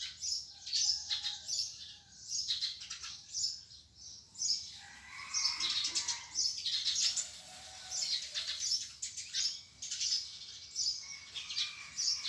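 Several small birds chirping and singing in quick, repeated high calls, with a lower, longer call about five seconds in.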